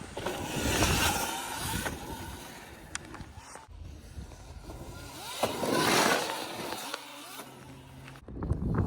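Sur-Ron electric dirt bikes riding past on dirt, twice: each pass swells up and fades away.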